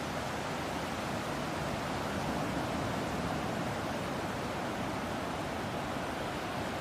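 Steady, even wash of ocean surf and sea breeze, with no separate wave crashes standing out.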